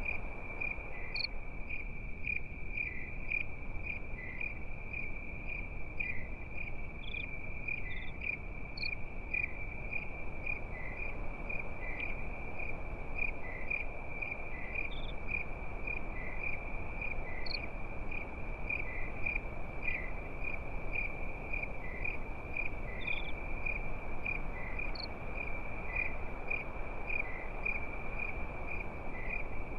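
Crickets chirping in one steady, unbroken high trill, with a few scattered higher chirps over it and an even low rushing noise beneath.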